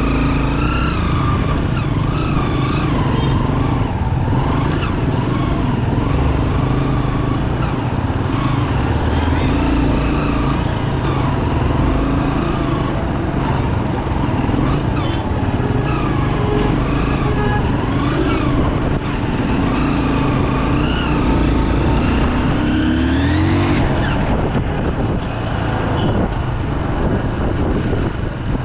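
A 2008 Bajaj Pulsar 200 motorcycle's single-cylinder engine running under way, its pitch rising and falling as it speeds up and slows, with one clear rev climbing about three-quarters of the way through.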